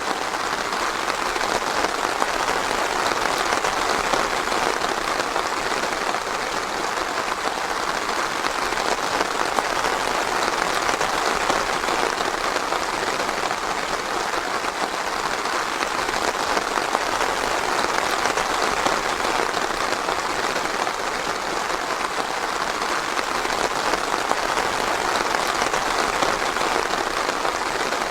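Steady, even rainfall on a forest canopy: a dense patter of drops that neither builds nor eases.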